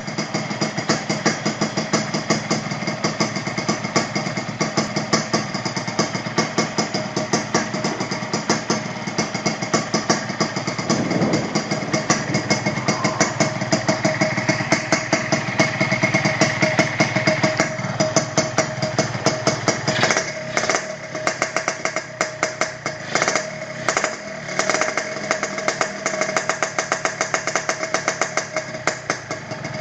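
Yamaha RX King's two-stroke single-cylinder engine running at idle through its stock exhaust with the muffler modified inside, a fast, even popping pulse. Between about 20 and 25 seconds the running goes uneven, dipping and picking up again several times.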